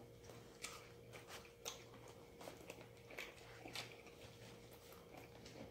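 Faint chewing of a sub sandwich: soft, irregular mouth clicks and smacks.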